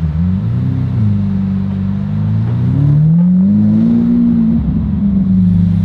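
Straight-piped Lamborghini Aventador Roadster's V12 running at low revs as the car creeps along. Its note rises briefly under a light throttle about three seconds in, then drops back to a steady low drone.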